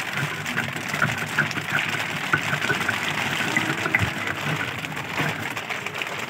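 Rain falling on the river and the wooden boat: a steady hiss with scattered drip ticks.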